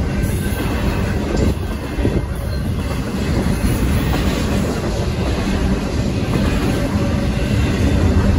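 Intermodal freight cars carrying double-stack containers and truck trailers rolling past, a steady rumble of steel wheels on the rails.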